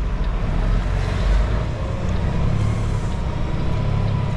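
Semi truck's diesel engine running steadily at low speed, a low rumble.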